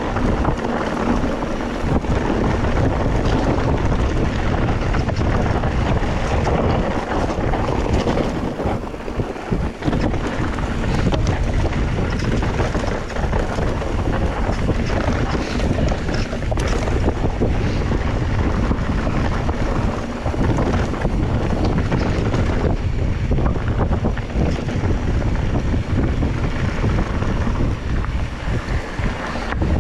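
Wind blowing across the microphone: a loud, continuous rumbling noise that rises and dips slightly with the gusts.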